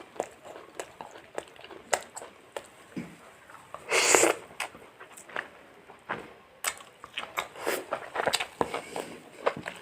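Close-up eating sounds of fried chicken being chewed: wet mouth clicks and smacks, with light crunching, repeating irregularly. About four seconds in comes one short, louder hiss-like burst, like a sharp sniff or breath.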